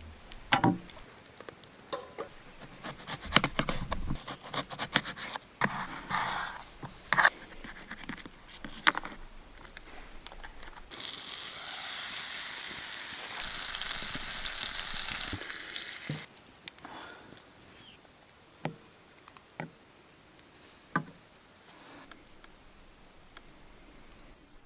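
Campfire cooking sounds: scattered knocks and clicks of cookware and utensils being handled, with a steady sizzle for about five seconds midway.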